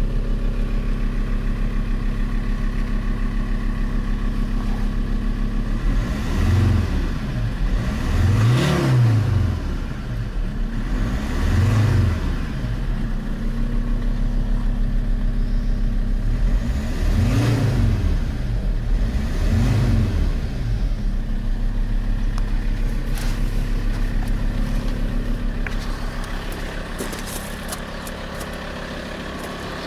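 Alfa Romeo 159's 2.4 JTDM five-cylinder turbodiesel idling, then revved up and let fall back five times, each a short rise and drop in pitch, before settling back to a steady idle.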